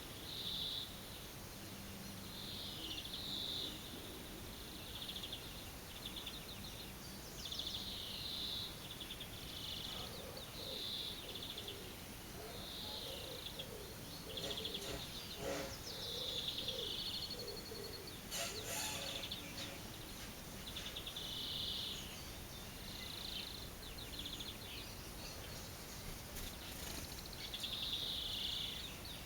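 A small bird calling over and over, short high-pitched chirps every second or two, some of them fast trills, against outdoor background noise.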